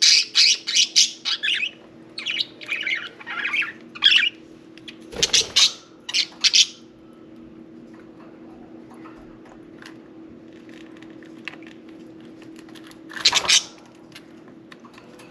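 Budgerigars squawking and chirping in quick runs of short, sharp calls through the first half, then mostly quiet apart from faint chirps and one loud burst of squawks near the end.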